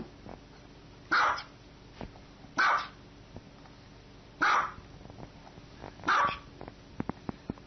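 Small white dog barking: four short, high-pitched barks about a second and a half apart.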